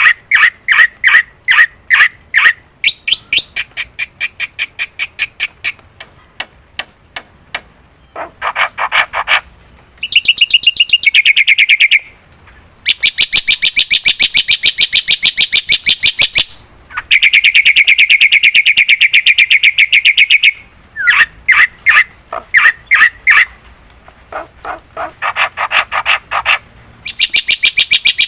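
Black-winged myna (jalak putih) singing: fast runs of loud, repeated sharp notes that alternate with long rattling trills lasting several seconds, the phrase changing every few seconds.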